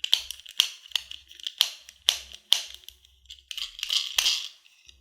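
A series of sharp clicks or taps, about two a second, with a short rustling, scraping noise near the end.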